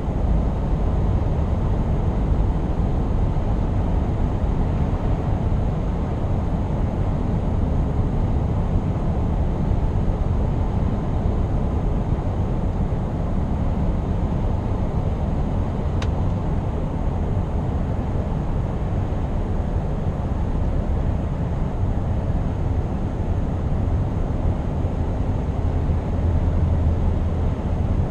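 Scania R520's 16-litre V8 diesel running steadily under way, with a low, even rumble mixed with road noise. A single faint click sounds about sixteen seconds in.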